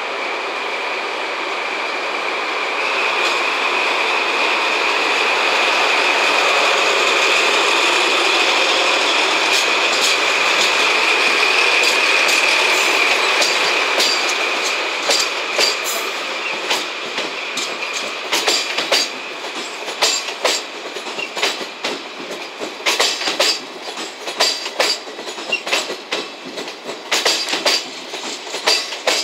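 DD51 diesel-hydraulic locomotive hauling five JNR 12-series passenger coaches passing close by. Over the first half the locomotive's running noise carries a steady high whine. From about halfway the coaches' wheels click over the rail joints in quick, uneven runs.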